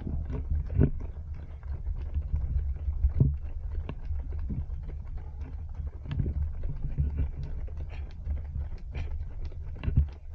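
Steady low wind rumble on a body-worn action camera's microphone while running, with irregular short knocks and puffs over it.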